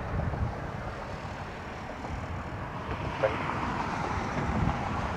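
Wind buffeting the microphone outdoors on a gusty day, an uneven low rumble that rises and falls.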